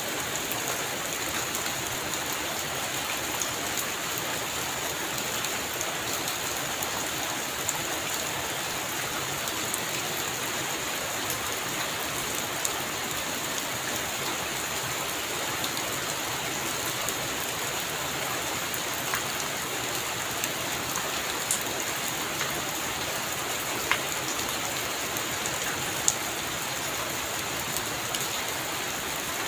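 Heavy rain falling steadily, a constant hiss with a few louder single drop impacts standing out here and there.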